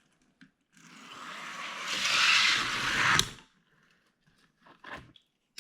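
Two die-cast toy cars racing side by side down a toy race track. Their rolling rumble builds for about two seconds as they pick up speed, then stops abruptly with a sharp click as they reach the end of the track.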